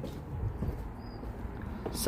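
Low, steady rumble of an Airbus A380's four jet engines approaching, with a brief faint high tone about a second in.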